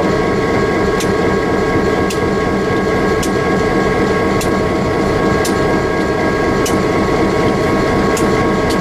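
Passenger train running steadily: continuous rumble with a steady whine and light sharp clicks about once a second.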